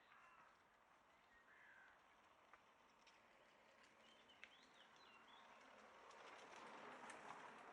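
Faint outdoor ambience with a few distant bird calls, one short call about a second and a half in and a few small chirps in the middle, over a soft hiss that grows toward the end.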